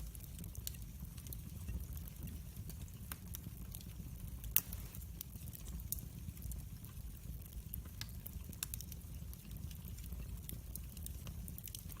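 Firewood burning in a fireplace, crackling and popping irregularly over a low steady rumble, with one loud pop about four and a half seconds in.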